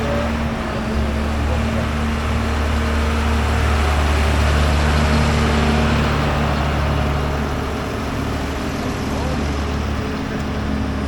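Tractor engine running steadily as a tractor drives past, growing louder towards the middle and then easing off.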